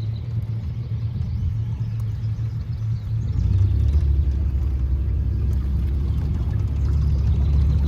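Boat motor running with a steady low hum, getting louder and deeper about three and a half seconds in as it speeds up.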